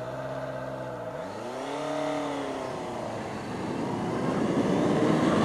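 A vehicle engine running, its revs dipping and rising in a couple of swells, then climbing and growing louder toward the end.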